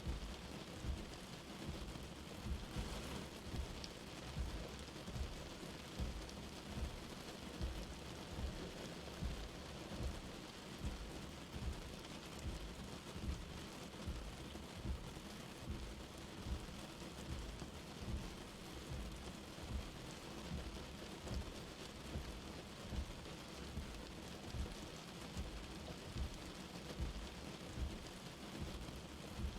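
Light rain falling steadily, with soft low thuds about once a second.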